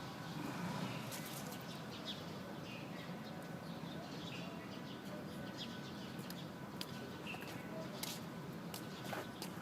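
Quiet outdoor ambience: faint, scattered chirps of small birds over a low steady hiss, with a few light clicks near the end.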